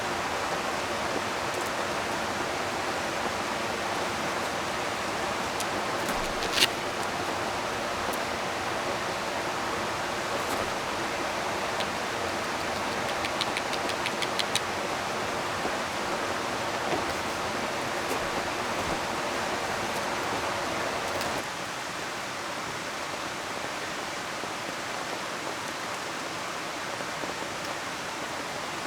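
Steady rush of a flowing river mixed with rain. A single sharp click comes about six and a half seconds in and a few light ticks come around the middle. The overall level steps down slightly about two-thirds of the way through.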